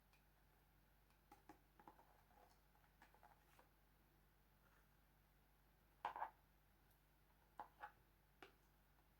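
Quiet kitchen handling: scattered light taps and clicks, with a louder double knock about six seconds in and three more single taps after it.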